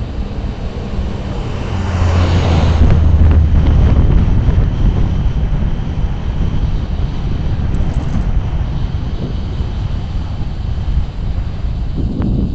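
Wind buffeting the camera microphone while riding, a loud low rumble that swells about two seconds in.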